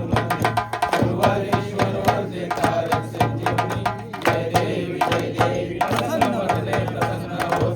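Maharashtrian banjo party band playing: a pitched banjo melody over fast, dense drum beats, with a steady low drone underneath.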